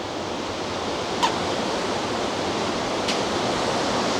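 Steady rushing noise, growing slightly louder, with a sharp click about a second in and a fainter click about three seconds in.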